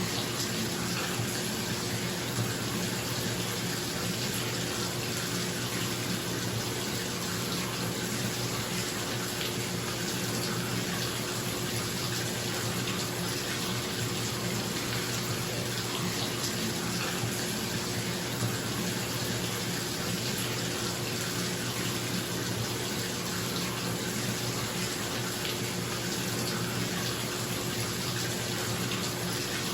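Bathtub tap running steadily into the tub: an even, unbroken rush of water. Underneath it, a bathroom exhaust fan gives a steady low hum.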